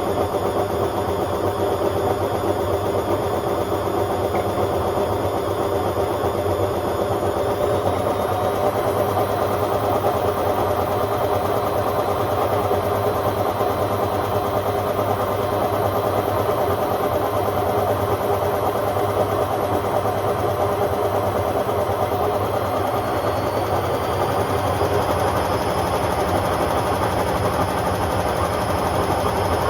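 Hotpoint Aquarius WMA50 washing machine spinning, loud and steady, with a high motor whine that steps up in pitch twice, about a quarter of the way in and again near the end, as the drum speeds up.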